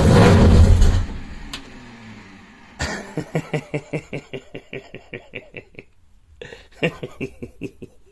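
Race car engine firing on the start button and running loudly, then cut off about a second in and dying away. Then a fast run of short pulses, about five a second, that fades out, with a few more near the end.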